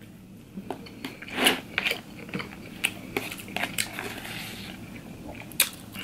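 Close-miked chewing of a mouthful of rice, with a few sharp clicks and scrapes of a plastic fork against a plastic takeout tray.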